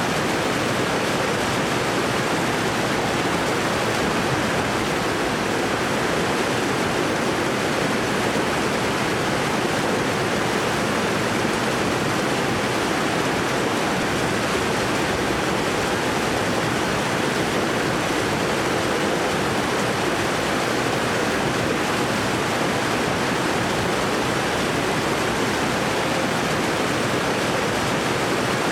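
Waterfall: water falling and rushing with a steady, even roar that does not change.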